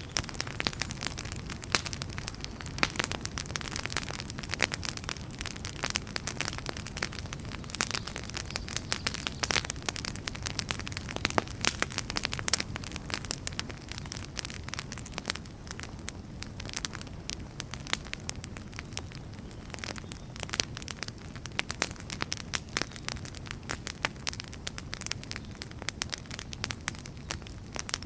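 Wood fire burning with a steady low rush, crackling and popping irregularly, the pops coming thickest in the first half.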